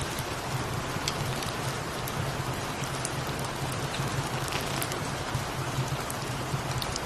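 Steady rain with a cat purring underneath as a low, evenly pulsing hum, and a few faint crackles from a fireplace.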